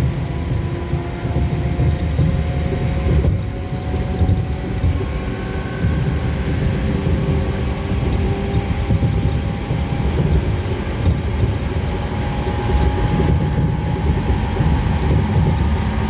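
Seibu 2000 series electric train running at speed, heard from inside the passenger car: a steady rumble of wheels on rail under a traction-motor hum whose tones slowly rise in pitch.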